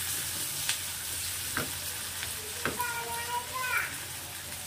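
Chopped onions and tomatoes frying in hot oil in a kadai: a steady sizzle, with a metal spatula scraping and tapping against the pan a few times as it stirs. About three seconds in, a short high-pitched squeal-like tone lasts about a second.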